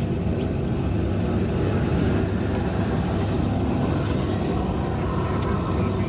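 Steady low rumble of a vehicle running, with a few light clicks over it.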